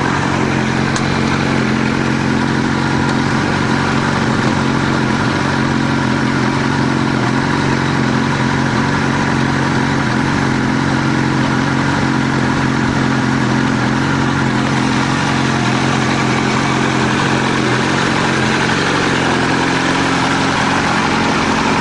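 Turbocharged Suzuki Hayabusa inline-four motorcycle engine idling steadily in a Mk1 Golf, with no revving.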